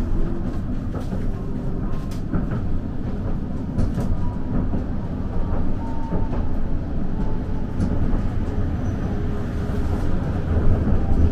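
Kagoshima City street tram running along its rails, heard from inside the car: a steady low rumble of wheels and motor, with a few scattered clicks.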